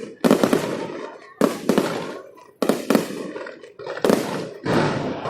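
Fireworks going off: about five loud bangs roughly a second apart, each trailing off in a fading crackle.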